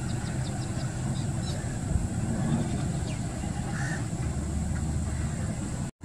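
A rapid series of faint, high bird chirps in the first second and a half, then a single falling whistle around the middle, over a steady low rumble. The sound cuts out briefly just before the end.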